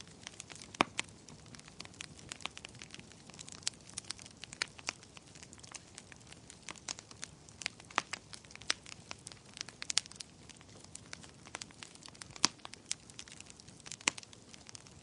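Wood fire crackling in a fireplace: irregular sharp pops and snaps, several to a second, over a soft steady hiss, with a few louder pops scattered through.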